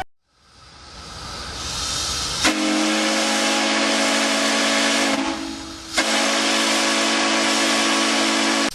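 Steam locomotive sound: a hiss of escaping steam builds up, then a low steam whistle of several steady tones blows over it in two long blasts with a short break between, cutting off suddenly at the end.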